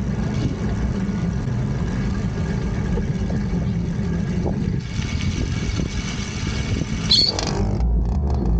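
A vehicle running with a steady low rumble and noise. About seven seconds in there is a brief, loud high squeal, and the sound changes abruptly just after.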